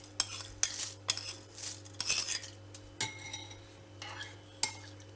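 A spoon scraping and clinking against a bowl in a run of short strokes, with a sharper knock near the end, as soaked basmati rice is added to a bowl of hot water and ghee.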